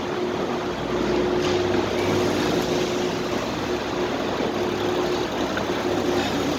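Steady ambience of a supermarket parking area: an even rushing noise with a steady hum, with vehicle engines running. The low rumble grows a little about a second in.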